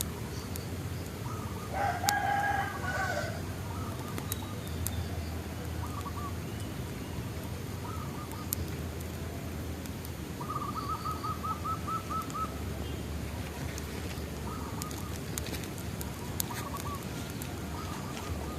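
Bonfire crackling with scattered sharp pops over a steady low rumble, while birds call: one loud, drawn-out call about two seconds in, then short repeated chirps and a rapid trill around the middle.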